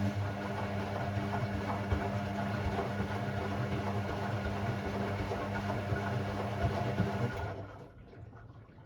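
Hoover Six Sportswear 1300 (AI130) washing machine running on its Delicate 15 programme: a steady hum with a noisy wash over it, cutting off about seven and a half seconds in.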